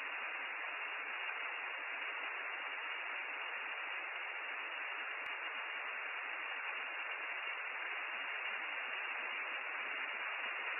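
Steady rain falling, an even hiss picked up by an outdoor webcam's microphone, which cuts off the high end of the sound.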